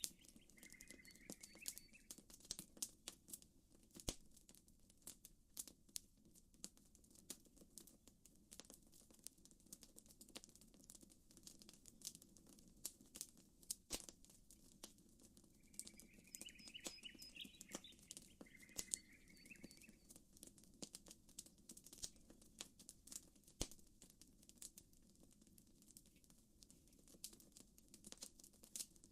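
Campfire crackling with frequent irregular sharp pops and snaps over a faint low hiss. A bird calls in short chirping phrases twice, near the start and about halfway through.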